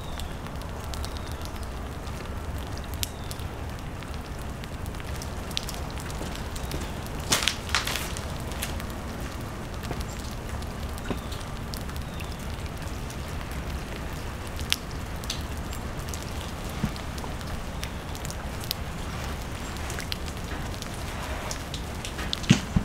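Steady rain with scattered small drips and ticks. A few sharp knocks stand out, two close together about seven seconds in and another just before the end.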